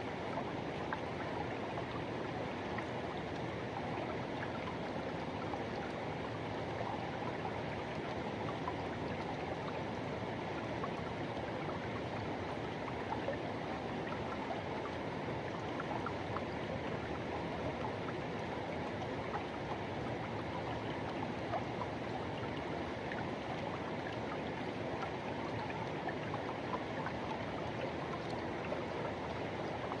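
Forest river rushing: a steady, even flow of water noise with small splashes flicking through it.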